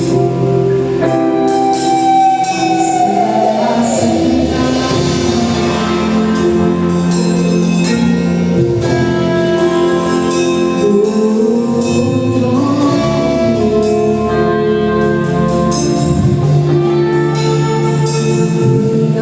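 Live gospel worship music: a church worship band playing sustained chords, with singing voices holding long notes. One held note slides down about two seconds in.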